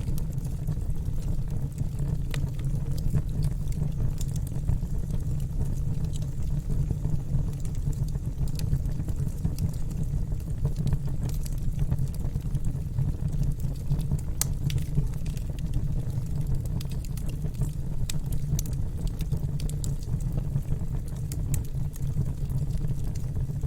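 Wood fire burning in a fireplace: a steady low rumble of the flames, with scattered sharp crackles and pops at irregular moments.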